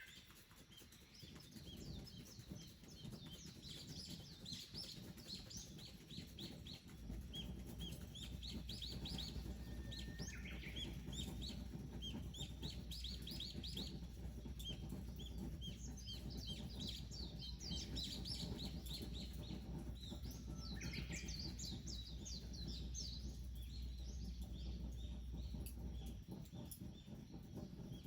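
Wild songbirds chirping, in many quick series of short high notes. A low steady rumble runs underneath from about seven seconds in until near the end.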